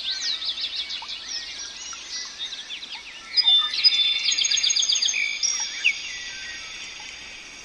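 Several small birds singing. First comes a fast series of repeated chirps. About three seconds in, higher whistled notes and trills join and then fade away.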